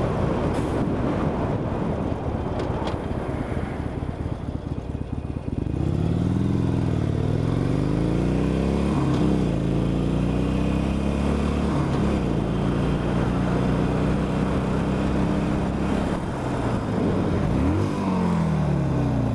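Cruiser motorcycle engine running on the road with wind noise on the microphone. About six seconds in the engine note comes up strongly and then dips and climbs several times as the bike slows and accelerates, with another dip and rise near the end.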